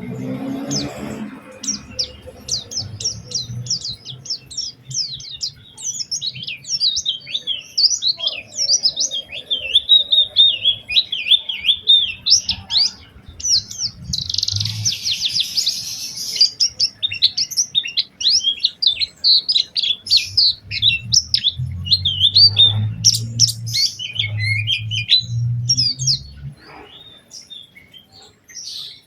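White-eye (pleci) singing a long, fast, chattering song of high twittering notes, quieter near the end.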